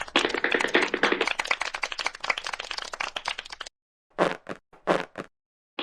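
Cartoon sound effect: a fast, dense run of tapping clicks that cuts off suddenly, then four short bursts.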